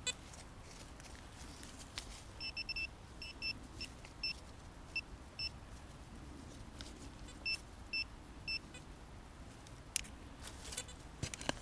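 Handheld metal-detecting pinpointer beeping in short, even high beeps, in two irregular runs, as it is passed over a metal target in a freshly dug hole. A few sharp knocks are heard as well.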